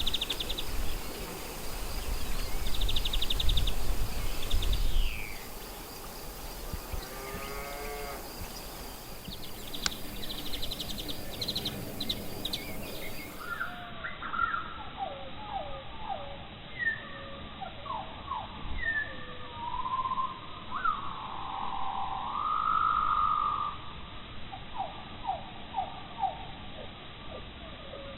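Insects stridulating in short rhythmic bursts over a steady high trill, with some low rumble in the first few seconds. About halfway through, the sound changes to songbirds: many short falling whistles and a longer warbling phrase.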